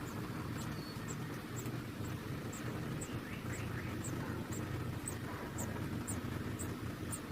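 Short, very high-pitched peeping from baby birds, repeating about twice a second over a steady low hum.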